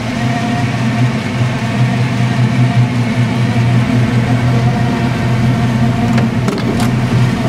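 1969 Chevrolet Camaro engine idling steadily. About six seconds in, a few sharp clicks come from the chrome door handle being pressed and the latch releasing.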